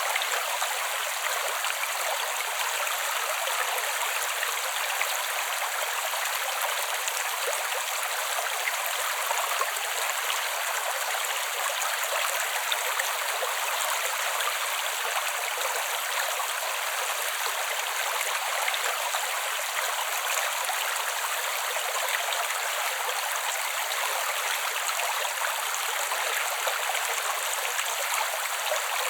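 Creek water flowing over stones: a steady, even rush and babble with no low rumble.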